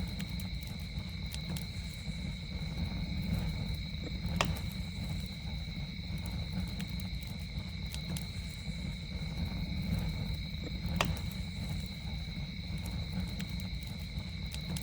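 Campfire crackling, with scattered sharp pops, the two loudest about four seconds and eleven seconds in, over a low steady rumble. Night insects trill steadily and high-pitched throughout.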